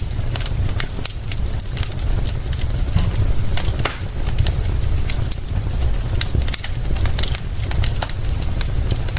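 Crackling fire with frequent, irregular sharp pops and snaps over a steady low rumble and the hiss of rain.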